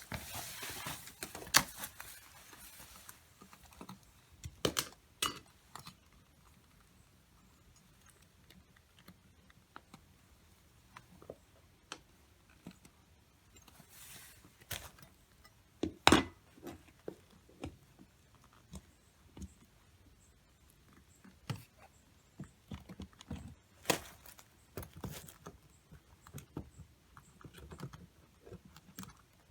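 Scattered clicks, taps and knocks of a hive tool and cutting knife prying and working at an irrigation control box, with the sharpest knock about halfway through. A short hiss sounds near the start and again a little before the middle.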